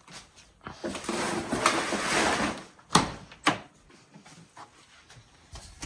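A rustling scrape lasting about two seconds, then two sharp knocks about half a second apart.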